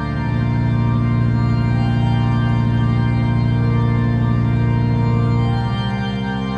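Background music: sustained organ-like chords, changing about a second before the end.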